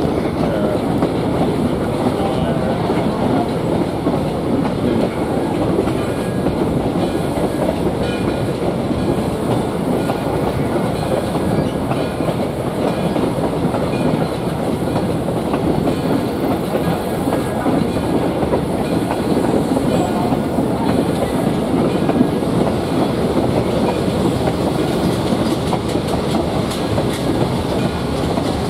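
Passenger train coach running along the track: the steady noise of its wheels on the rails, even throughout.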